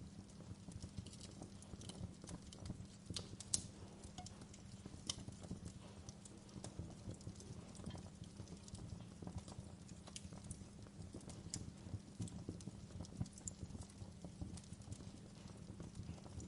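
Wood fire crackling: logs popping and snapping in irregular clicks over a steady low rumble, with one sharp pop about three and a half seconds in.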